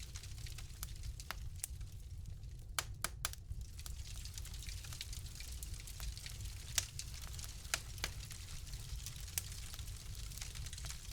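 Wood fire in a fireplace crackling: scattered sharp pops over a steady low rumble, with a quick run of pops about three seconds in and a louder single pop near seven seconds.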